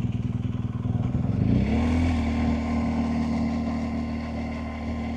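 BMW R1250GSA's boxer-twin engine running under way. About a second and a half in its pitch rises and then holds steady at a higher note as the bike picks up speed.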